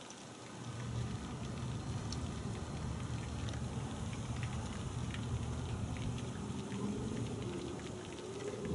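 MTM foam cannon on a gas pressure washer spraying snow foam onto a car: a pattering spray over a steady low hum of the pressure washer that picks up about a second in.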